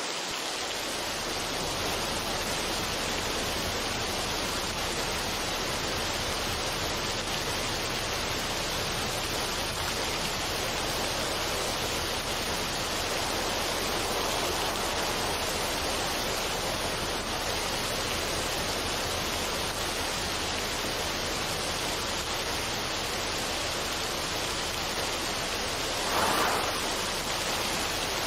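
Steady, even rushing noise with no tones or rhythm, swelling briefly louder near the end.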